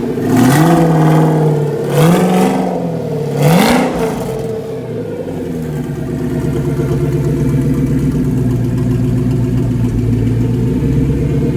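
Whipple-supercharged Ford GT engine blipped three times in quick succession, pitch rising and falling each time. It then settles into a steady idle.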